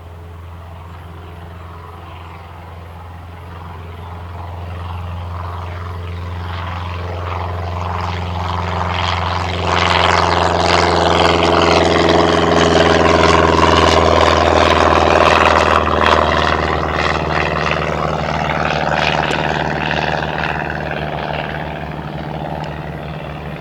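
Cessna 162 Skycatcher's four-cylinder engine and propeller passing by: the drone grows louder, is loudest about halfway through, then fades away, with its pitch dropping slightly as it goes.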